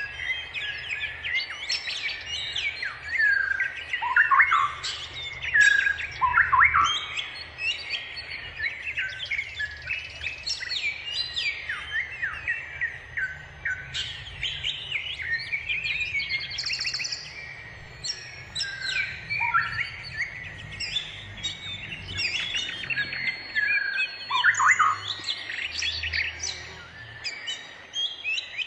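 Wild songbirds singing: a busy, varied run of short chirps, trills and whistles with almost no gap, with louder, lower whistled notes about four, six and twenty-five seconds in.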